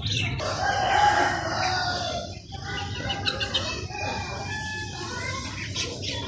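A rooster crows once, a long call of about two seconds, followed by small birds chirping.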